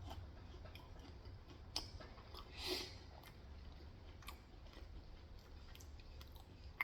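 A person chewing a bite of McDonald's guava cream cheese pie close to the microphone, with faint scattered mouth clicks and one brief louder sound about three seconds in.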